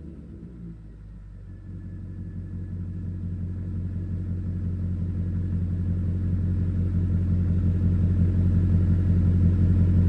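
Volvo XC90 V8 Sport's 4.4-litre Yamaha-built V8 idling through a custom Magnaflow exhaust at running temperature: a steady, deep rumble that grows gradually louder.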